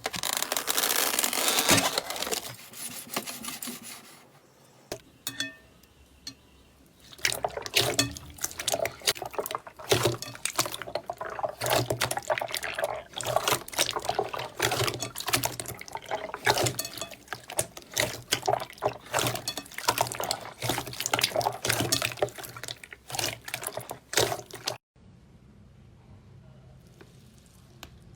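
Slime worked by hand close to the microphone: wet squelching and dense sticky clicking and crackling, with a quieter gap early on and an abrupt cut to a much quieter stretch near the end.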